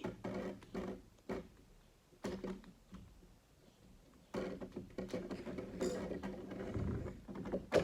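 Lego Technic plastic parts being handled, with scattered short clicks and knocks as pieces and a tire are fitted. About halfway through, a low steady hum joins in.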